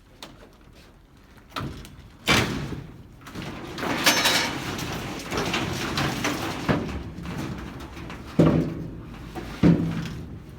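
Corrugated metal roofing sheets being pulled apart and handled: clanks and bangs with scraping and rattling between them. The loudest hits come about two seconds in, at about four seconds, and twice near the end.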